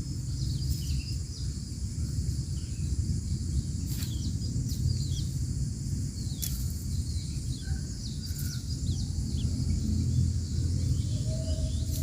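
Outdoor ambience: a steady high insect drone with many short, high, falling chirps from small birds scattered throughout, over a constant low rumble.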